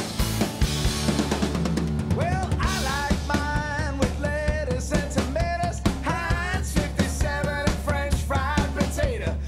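Band music with a steady drum-kit beat and bass, and a lead melody line coming in about two seconds in.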